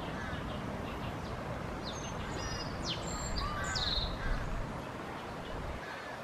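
Several short bird chirps and calls, most of them about two to four seconds in, over a steady outdoor background noise with a low rumble.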